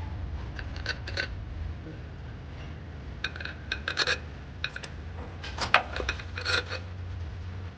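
Metal tools and parts clinking and scraping in short irregular bursts, with a bright metallic ring to each knock, over a steady low hum.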